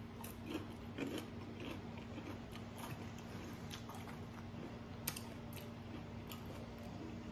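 Faint chewing of a mouthful of food, with small irregular clicks and crunches from the mouth, over a low steady hum.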